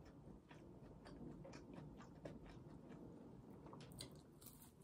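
Faint crackle of a flaky, freshly baked croissant being torn apart and chewed, with a crisper cluster of crunches near the end as a piece is bitten.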